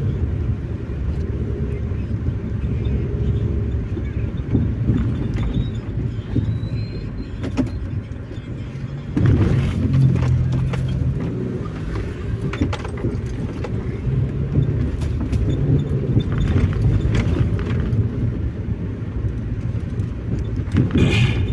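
Car driving, heard from inside the cabin: a steady low rumble of engine and road noise, with a few brief knocks along the way.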